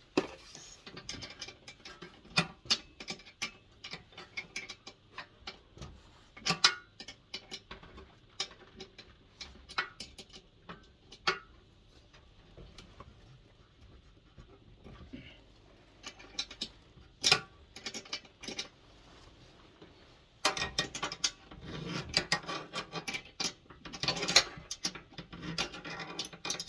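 Ratchet spanner clicking and metal tools clinking while bolts are being undone, with irregular scattered clicks at first and a dense run of fast clicking near the end.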